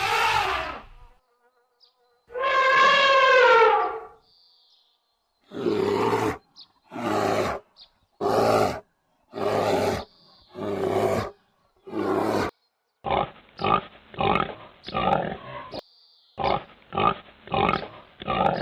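A series of animal calls: one long pitched call, then a run of separate calls about a second apart that grow shorter and quicker near the end.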